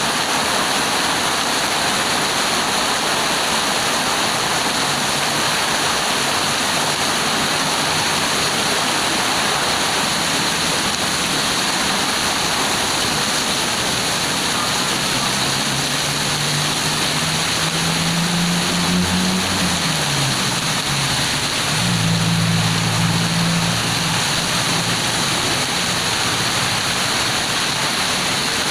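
Heavy rain pouring down in a loud, steady hiss. About halfway through, a low engine hum rises, dips and fades over several seconds beneath the rain, as a vehicle passes.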